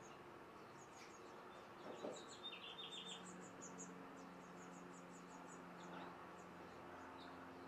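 Faint background birdsong: scattered short, high-pitched chirps, with a quick run of about five notes some two and a half seconds in, over a low steady hum.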